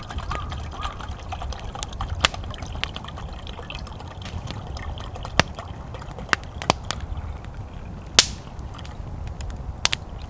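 Wood fire crackling, with sharp irregular pops over a low steady rush; the loudest pop comes near the end.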